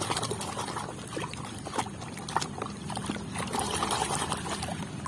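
Water sloshing and trickling as a muddy toy is rubbed and rinsed by hand in a tub of water, with a few small knocks.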